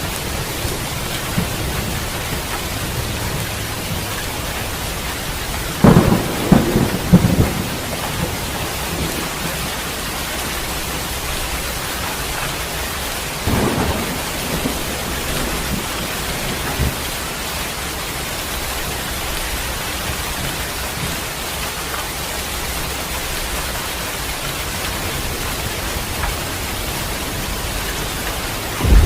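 Steady heavy rain with thunder: a low rumble, then a loud crackling thunderclap about six seconds in and a shorter, fainter one about halfway through.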